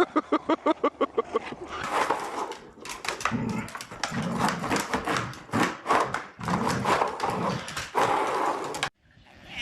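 A dog yapping in a fast run of short yips for about the first second and a half, followed by a busy jumble of clattering and rougher dog noises. The sound cuts off abruptly near the end.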